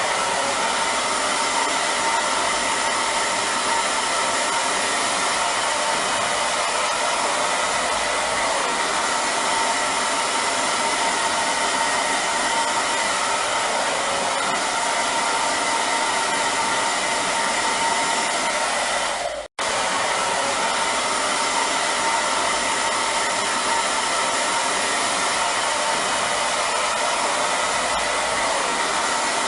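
Hair dryer running steadily: a constant rush of blown air with faint steady humming tones. It cuts out for a split second about two-thirds of the way through, then carries on unchanged.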